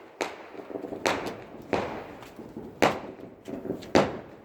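Small fireworks going off: about five sharp bangs at uneven intervals with smaller pops between them, each trailing off briefly.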